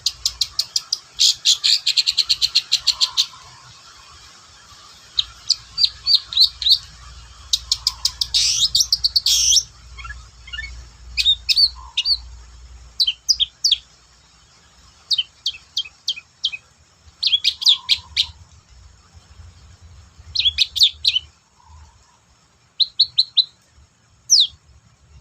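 Long-tailed shrike singing in fast, harsh chattering runs of sharp high notes. The runs are broken up into short groups with pauses between them.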